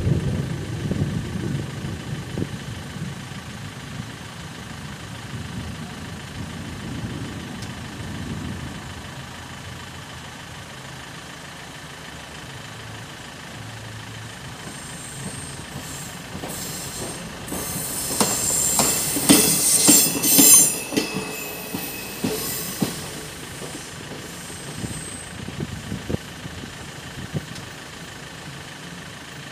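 A train passing over the level crossing, its wheels clattering and squealing, loudest a little past the middle and dying away toward the end. A waiting car's engine idles in the first several seconds, and the crossing's classic bell rings faintly behind.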